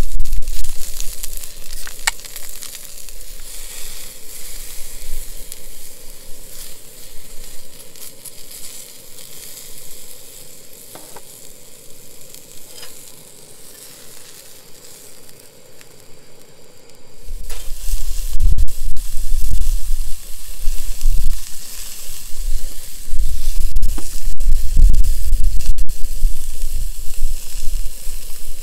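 Food sizzling and crackling in a hot pan. The sizzle dies down through the first half, then about two-thirds in it turns loud again, with a low rumble and sharp clicks.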